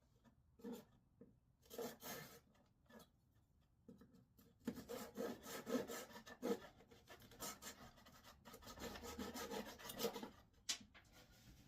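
Wood being scraped or rubbed by hand: a few separate strokes, then a faster, steadier run of strokes, ending with a single sharp click.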